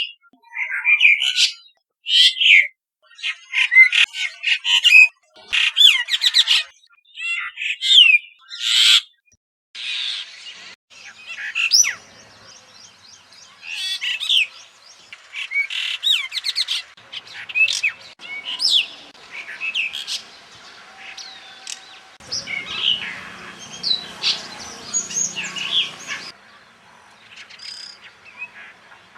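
Brahminy starling calling and singing: a string of short, rapid phrases with quick up-and-down notes, loud and well spaced at first, then softer against a background hiss. About twenty-two seconds in, a rush of broad noise runs under the calls for about four seconds.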